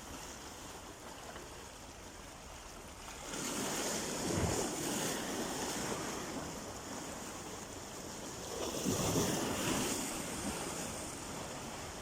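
Sea waves washing on the shore, two larger waves surging in and breaking, one about a third of the way in and one about three-quarters through, over a steady wash of surf.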